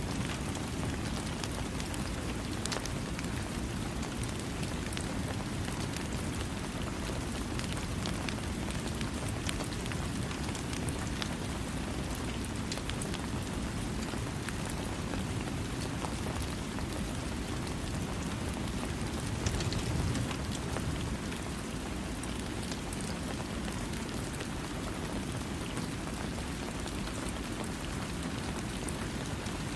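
Steady rain falling, a dense even patter with individual drops ticking through it, and a brief low swell about twenty seconds in.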